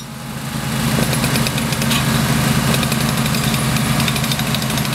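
Engine of a small drilling machine running steadily, growing louder over the first second.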